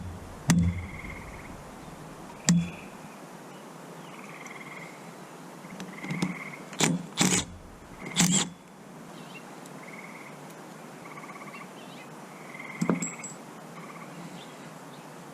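Several sharp knocks and clicks, three of them in quick succession about halfway through, from small carburetor parts being handled on the bench. Short buzzy chirps from animals outside repeat faintly behind them.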